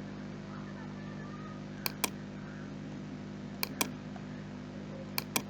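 Computer mouse double-clicks, three pairs about a second and a half apart, over a steady low electrical hum.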